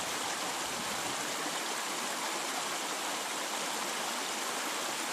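Steady rush of a mountain river's flowing water, an even unbroken noise.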